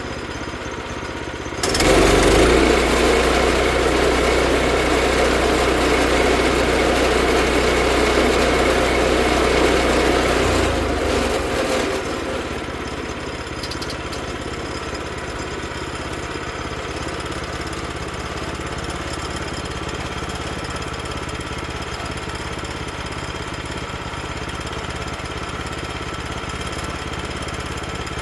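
Small gasoline engine of a Woodland sawmill running after a cold start, back in use after sitting unused for about a year. About two seconds in it runs louder, and near twelve seconds it drops back to a steadier, quieter running level.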